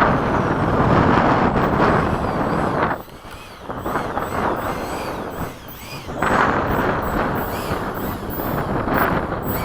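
Gusty wind rushing on the microphone, dropping away briefly twice, with the faint wavering whine of the Freewing F-104's 90mm electric ducted fan.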